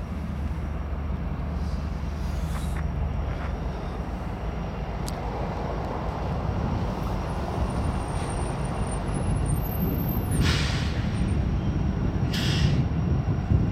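Union Pacific diesel freight locomotives rumbling low as the train rolls slowly in to a stop, with two short hisses of air from the brakes near the end.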